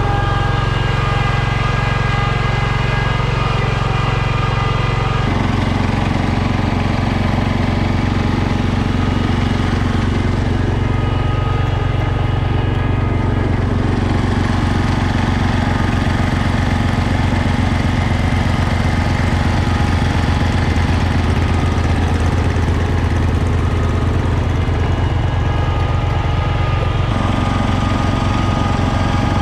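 Garden tractor engine running steadily. Its note changes abruptly about five seconds in and again near the end.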